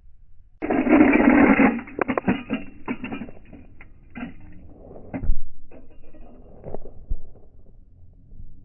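1/64 scale die-cast toy cars crashing: a sudden loud clattering burst, then a run of sharp metal-and-plastic knocks and clicks that thin out as the cars tumble and settle.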